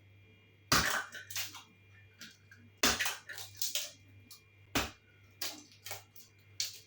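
Eggs being cracked on the rim of a bowl: three sharp knocks about two seconds apart, with smaller crackles of breaking shell between them.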